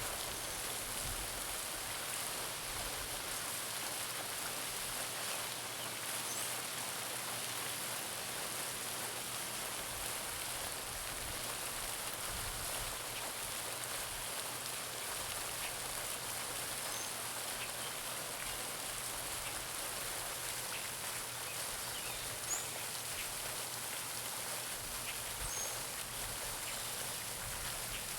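Garden pond fountain splashing steadily into the pond, a constant hiss of falling water. A few faint bird chirps come through now and then.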